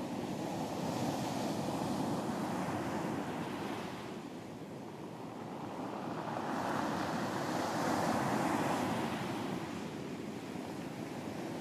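Ocean surf washing onto a beach: a steady rush of waves that swells, eases about four seconds in, and builds again to a second peak.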